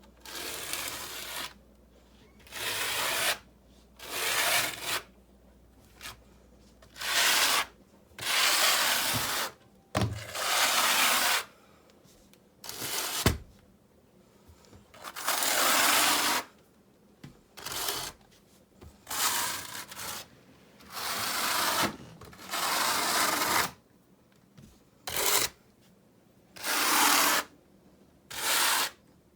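Repeated rough scraping strokes, about fifteen of them, each lasting half a second to two seconds with short pauses between.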